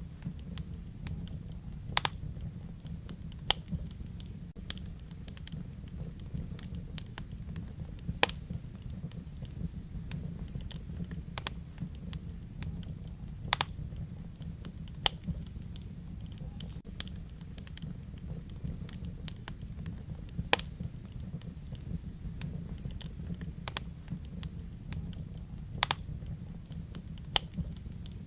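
Wood fire burning in a fireplace: a steady low rumble of flame with irregular sharp crackles and pops, a few of them much louder than the rest.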